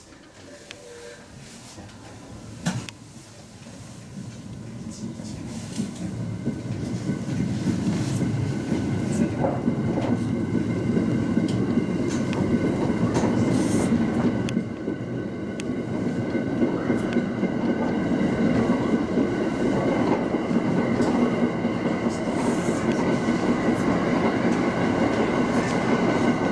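Local train running on the Tsugaru Line, its rolling noise building over the first several seconds as it gathers speed, then running on steadily with wheel-on-rail rumble and clicks. A sharp click comes about three seconds in.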